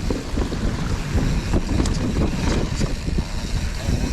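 Enduro mountain bike descending a rough dirt trail: wind buffeting the microphone over a steady rumble from the tyres, with constant rattles and knocks from the bike.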